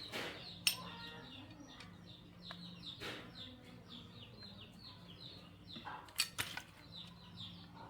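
Small birds chirping rapidly and continuously, high descending peeps, over a steady low hum, with a few sharp clicks or knocks: one about a second in and two close together about six seconds in.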